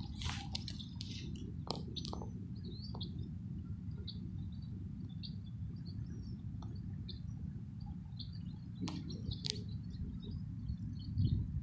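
Small birds chirping in short calls scattered throughout, over a steady low rumble, with a few sharp clicks about two seconds in and again near the nine-second mark.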